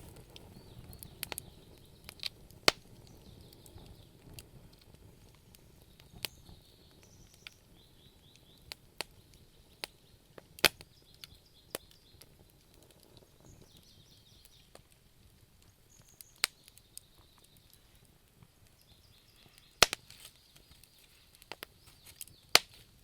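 Wood fire crackling in a fireplace: irregular sharp pops and snaps over a faint low rustle, a few of them much louder than the rest.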